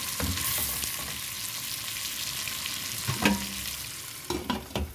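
Beef chunks sizzling as they are sautéed in a stainless steel pot, stirred and scraped with a metal spoon. A few sharp metal clinks come near the end as a glass lid is brought onto the pot.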